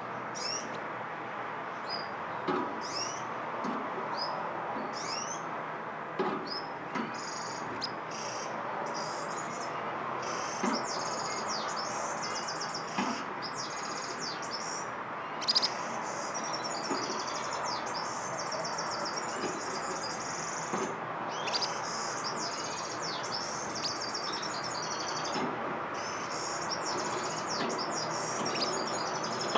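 Small birds chirping and twittering, many short overlapping high calls that become a dense continuous chatter from about eight seconds in, over a steady background hiss.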